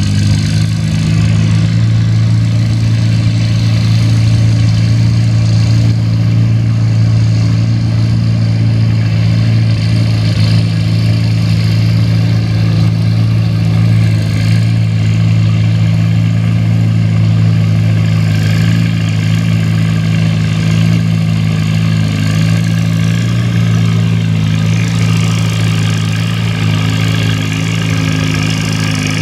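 Antique farm tractor engine running at a steady speed, its pitch holding level throughout.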